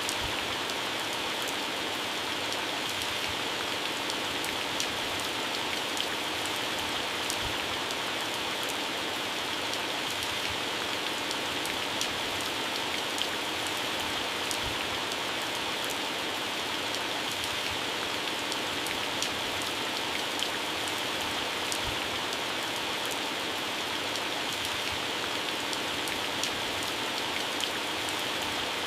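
Heavy rain falling steadily on plants and grass, a continuous hiss with the sharp ticks of single drops hitting leaves scattered through it.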